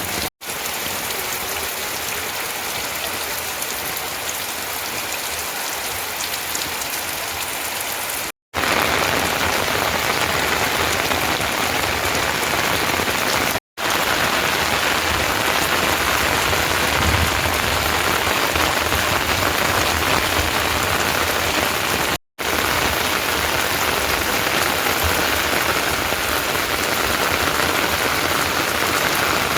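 Steady rain falling, an even hiss with no single drops standing out, broken four times by a split-second silent gap where the footage is cut.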